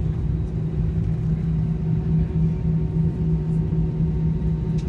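Steady low drone inside an airliner cabin, the engines and air system running evenly, with a constant hum under it.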